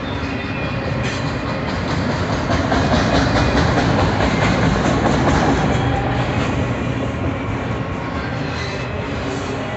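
Freight train rolling past at speed, wheels clicking over the rail joints. It grows louder about two and a half seconds in, then eases slightly.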